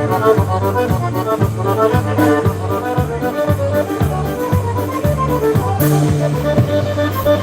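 Live polka band playing an instrumental tune, with accordion melody over a steady oom-pah beat.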